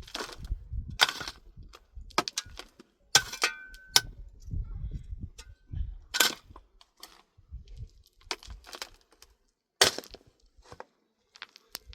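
A series of about eight sharp cracks or knocks at uneven intervals, with a quick cluster of them a little after three seconds in, and low thuds and rumble between the strikes.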